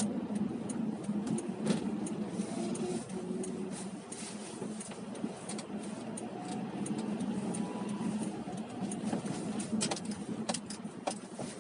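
Car cabin noise: a steady low engine and road hum, with scattered small clicks.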